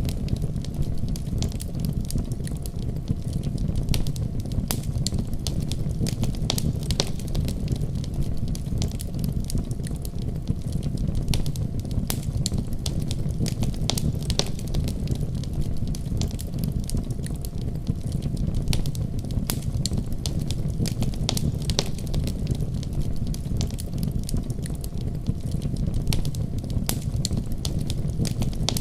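Wood fire crackling with scattered sharp pops, over a steady deep rumble of a snowstorm's wind.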